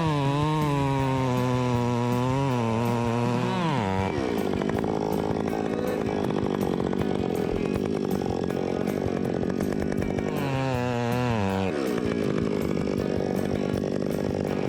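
Two-stroke chainsaw revving high as it cuts, its pitch wavering under load, then dropping off about four seconds in. It revs up again briefly about ten seconds in and falls back, with a steady rough running sound between.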